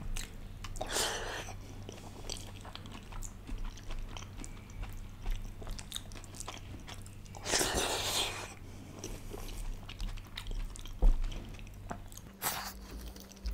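Close-miked eating of kadhi chawal (rice mixed with kadhi) by hand: wet chewing and lip-smacking with many small mouth clicks, and two louder, longer mouth noises about a second in and again near the middle.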